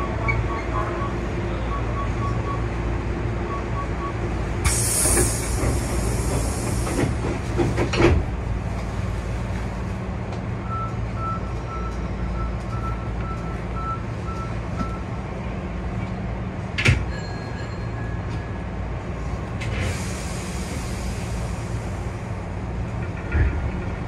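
Hankyu 8000 series electric train running, heard from the driver's cab: a steady low rumble with two spells of hiss, a couple of sharp knocks, and runs of short, high beeps.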